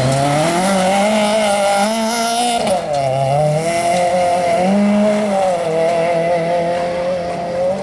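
Rally car engine running at high revs. Its note climbs and falls as it changes gear and lifts off, with a clear dip about three seconds in.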